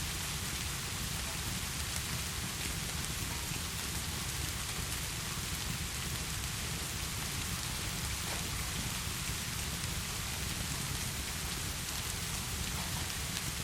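Heavy rain falling steadily, with a deep even rumble underneath and faint scattered ticks on top.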